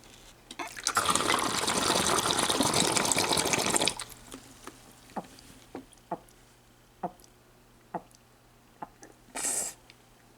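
Water pouring out of a homemade waterfall bong for about three seconds, drawing smoke in as it drains. It then slows to single drips about once a second, with a short hiss near the end.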